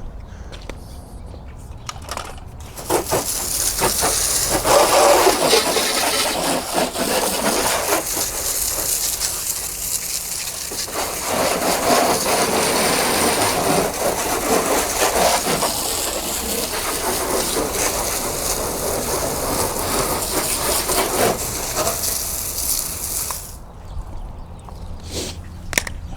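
Water spraying hard onto a car's bodywork, an even hiss that starts about three seconds in and stops near the end.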